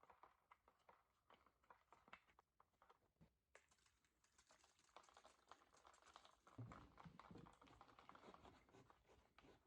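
Near silence: room tone with faint scattered clicks and rustling.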